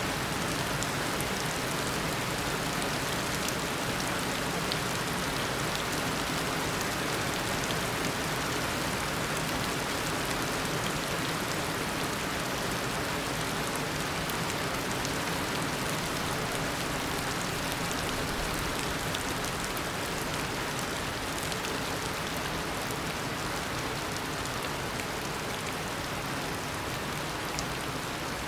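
Heavy tropical rain falling steadily, a dense even hiss of drops on surfaces with fine individual drop patter throughout.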